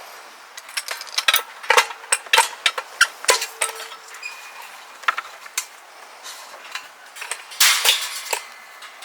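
Metal utensils and cookware clinking and knocking in an irregular string of sharp clicks, some with a brief ring, with a longer clatter near the end.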